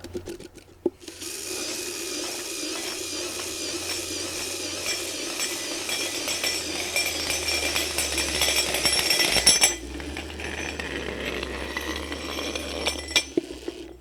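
Cordless drill running steadily, spinning a winding spindle that rolls up a flat fire hose, with the hose rattling and scraping as it winds. It starts about a second in, gets quieter near ten seconds and stops near the end.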